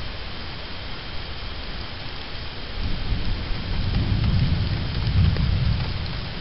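Steady rain hissing, with a low rumble of thunder that swells about halfway through and fades again near the end.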